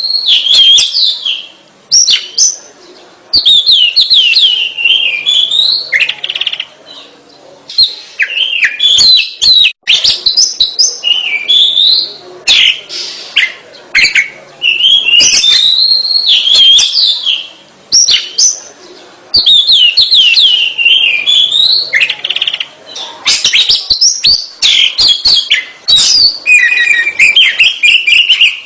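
Oriental magpie-robin in full song: loud, varied whistled phrases that rise and fall in pitch, delivered in bursts of one to two seconds with short pauses, mixed with sharp clicking notes.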